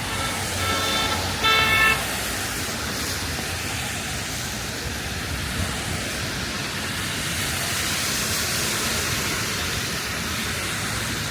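A vehicle horn toots twice about a second in, the second toot louder and shorter, over steady street traffic noise.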